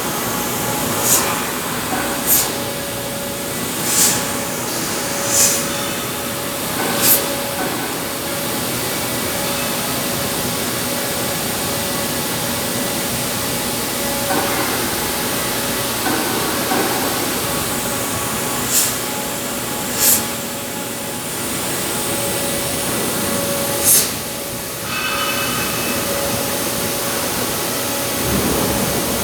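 CNC steel-cutting machine at work: a steady hiss and hum, with short sharp hisses, five about a second and a half apart at first and three more later on.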